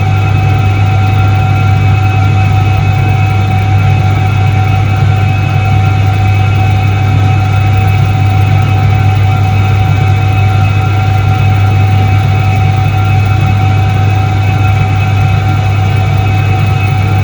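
1978 Soviet ISET-3 washing machine running with a loud, steady motor hum and a constant higher whine.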